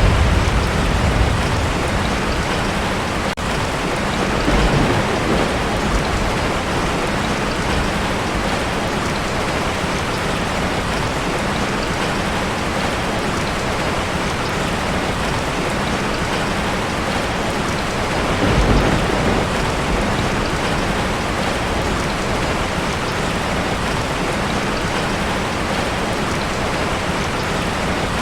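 Heavy rain drumming steadily on a tin roof. A low thunder rumble fades out in the first second or two, and brief low rumbles swell about five and nineteen seconds in.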